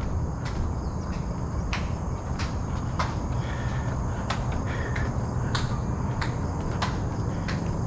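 Footsteps at an even walking pace, a sharp tap about every two-thirds of a second, over a steady low rumble. A faint steady insect drone sits high above them.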